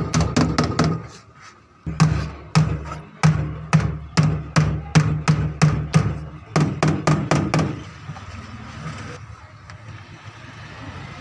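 Hammer blows on a sheet-metal strip of a fridge cabinet, struck about three times a second with a short pause about a second in, stopping about eight seconds in.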